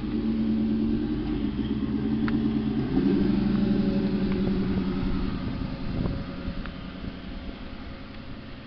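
Car engine running through a side exhaust with a low, pulsing note. It gets louder with a change in pitch about three seconds in, then fades over the last few seconds.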